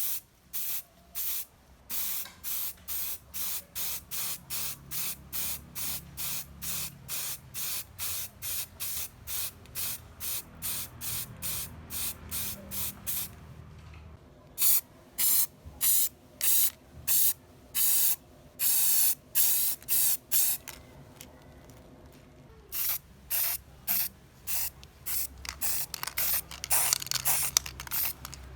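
Something being sprayed in rapid short hissing bursts, about two a second, then after a short pause in fewer, longer bursts.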